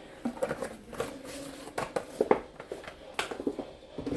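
Irregular light taps and rattles, about a dozen, from a seasoning shaker being shaken over a dish of flour.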